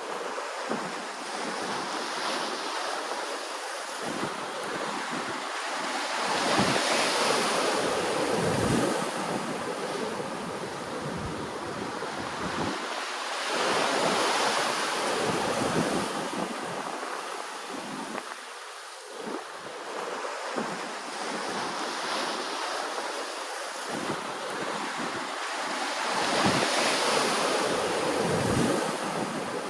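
Ocean waves washing onto the shore, a continuous rush that swells into a louder surge every six to eight seconds and then eases off.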